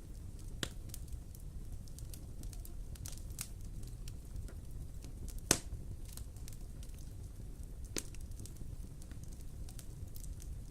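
Wood fire in a fireplace crackling over a steady low rumble, with scattered sharp pops, the loudest about halfway through.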